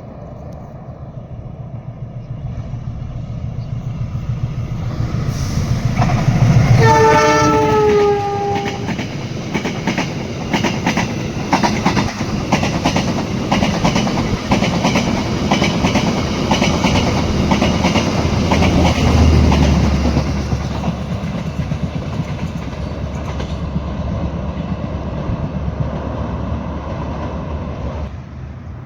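A train approaching and passing, its rumble building before it sounds a multi-tone horn for about three seconds, the pitch dropping slightly as it goes by. The wagons' wheels then clatter rhythmically over the rail joints, with a heavy low rumble swelling again about twenty seconds in before the noise fades.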